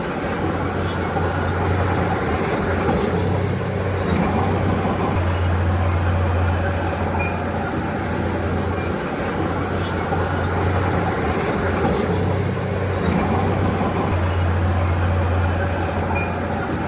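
Bulldozer's diesel engine running under load, its deep hum strengthening and easing every few seconds as it works, with faint high squeaks scattered over it.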